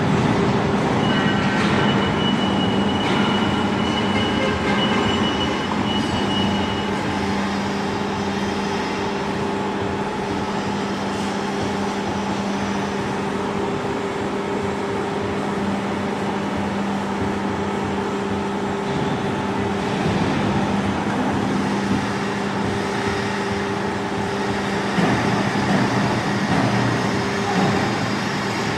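W24S-140 CNC hydraulic profile bending machine running, a steady mechanical hum with a high thin squeal for several seconds near the start.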